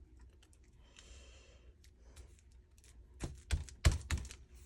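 A soft breath, then several light clicks and taps in the last second and a half, as of paper and small craft tools being handled on a table.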